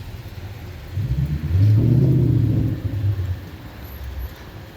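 A car engine running close by, its low note swelling about a second in and easing off after a couple of seconds.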